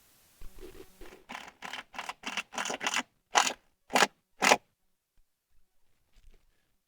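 Repeated scraping strokes: a quick run of short scrapes, then three louder, slower strokes, stopping about two-thirds of the way in.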